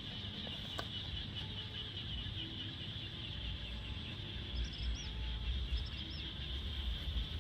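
Outdoor ambience: a steady high-pitched drone throughout, with a few short bird chirps between about four and six seconds in, over a low rumble.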